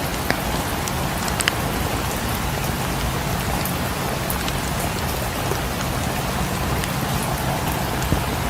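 Steady rain, with a few sharp ticks now and then.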